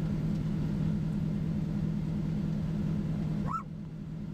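Steady low hum of the chase vehicle running, which stops about three and a half seconds in. Just after it stops comes one short call that rises and falls in pitch.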